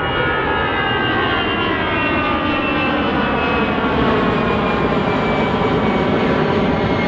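Jet engines of an Airbus A319 airliner passing close, a loud steady rush with several whining tones that slowly fall in pitch.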